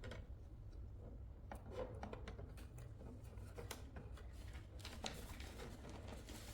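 Faint, scattered clicks and rattles of hard plastic toy parts being handled and turned, as someone tries to work the lift of a toy car wash playset, over a steady low hum.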